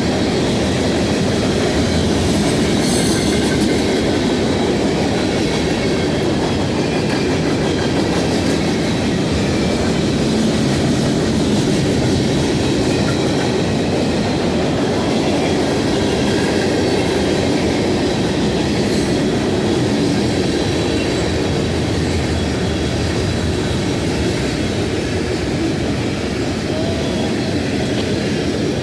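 CSX freight train M574 rolling past close by, its cars' steel wheels on the rails making a steady, loud rumble and clatter.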